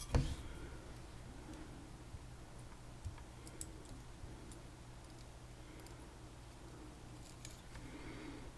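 A knock just at the start, then a few faint, scattered clicks of small brass lock pins and springs being handled while a Tesa TK100 pin-tumbler lock is taken apart.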